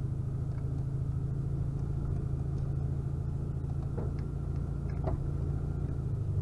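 Air-cooled flat-four engine of a 1973 VW Super Beetle running steadily with a low, even rumble.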